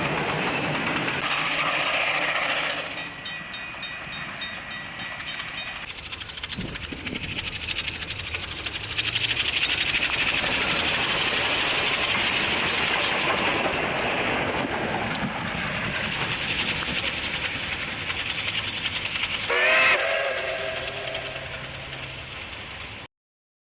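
Steam train running, with steady rumble and rail clatter. A short blast on the locomotive's steam whistle about twenty seconds in is the loudest moment, and the sound cuts off abruptly near the end.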